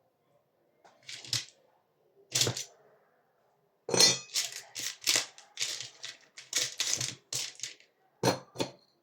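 Small hard parts and tools clattering and clinking during hands-on work: two single clicks, then a quick run of clinks and knocks for about four seconds, then two more near the end.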